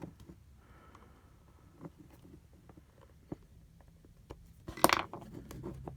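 Scattered light clicks and taps of hands and a screwdriver working on a plastic charger case, with a louder clatter of knocks about five seconds in.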